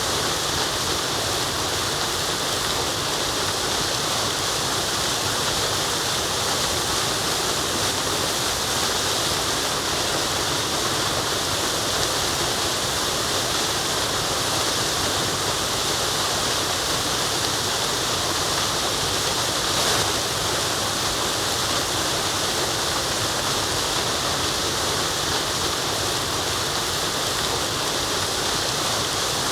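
Waterfall: water falling and running, a steady even rush with a hiss high in the range.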